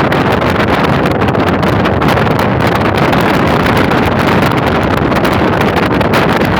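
Loud, steady rush of wind buffeting the microphone from a moving vehicle, with road and engine noise underneath.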